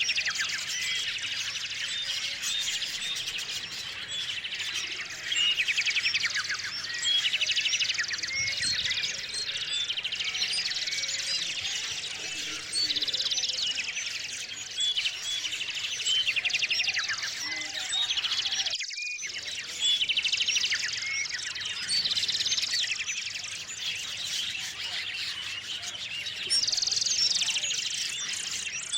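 A chorus of many small songbirds chirping and trilling over one another, with a brief break about nineteen seconds in.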